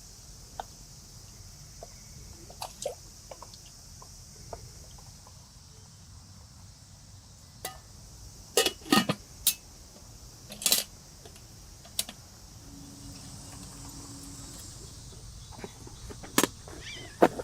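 Light clicks and clinks of camp cooking gear being handled, with a cluster of sharper knocks a little past the middle and two more near the end, over a steady high hiss.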